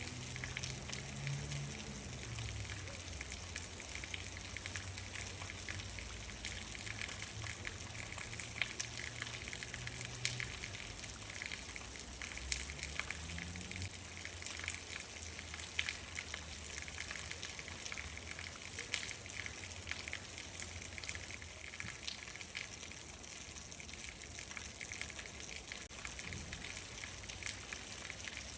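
Steady rain falling, with many individual drops heard as sharp ticks over an even hiss. A low rumble sits underneath through the first half and then fades out.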